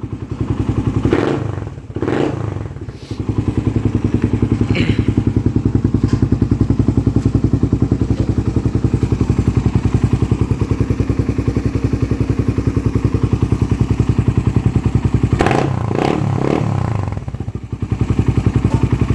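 Suzuki Raider 150 single-cylinder four-stroke motorcycle engine running through an Apido Chicken exhaust pipe with no silencer, giving a loud, fast, pulsing beat. The steady run is broken twice by short throttle changes, about a second in and near the end.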